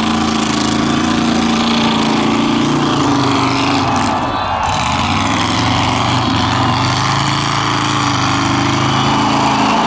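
Cadillac hearse demolition derby car's engine running loud through upright exhaust stacks as it drives on the dirt track. Its revs change several times, easing off briefly about four seconds in.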